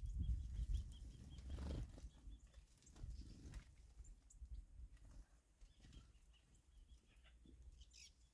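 Small birds calling faintly: a quick run of short, high, repeated chirps in the first two seconds, then scattered chirps, over a low rumble that dies down after about two seconds.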